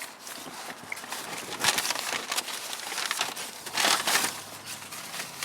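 Takeout food packaging crinkling and rustling, louder about two seconds in and again about four seconds in.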